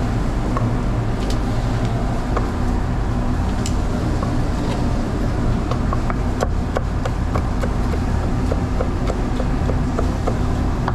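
Knife slicing grilled teriyaki chicken on a cutting board: a run of short, even taps about three a second in the second half, with scattered clicks before it. Under it runs a loud, steady low machine hum.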